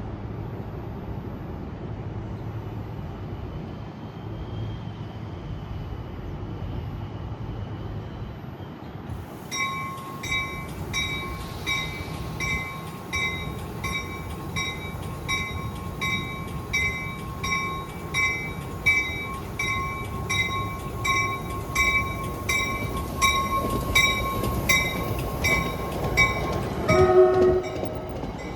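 Train rumbling low. About a third of the way in, a railway bell starts ringing steadily at about three strokes every two seconds, over a steady high tone. Near the end the bell stops and a train horn sounds briefly.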